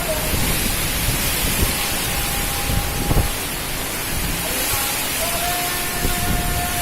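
Heavy rain with strong gusting wind buffeting the microphone, a steady hiss with a rumbling low end. A faint held tone sounds in the background twice, about two and five seconds in.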